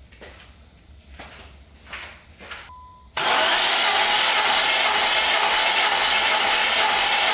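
B15 Nissan Sentra engine being cranked over on its starter for a compression test. A steady whirring starts suddenly about three seconds in, after a few faint knocks and a short beep.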